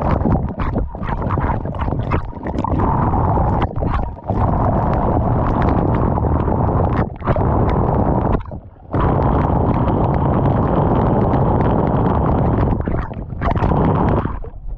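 Wind buffeting the microphone of a camera carried on a moving bicycle: a loud, dense rush of noise, heaviest in the low end, broken by several short gaps.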